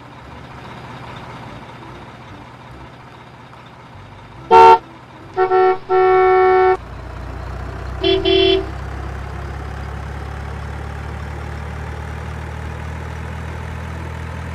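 Truck horn sound effects: a short honk, then two longer toots, then a shorter, lower toot. After them a steady low engine rumble, like a heavy truck idling, sets in and holds.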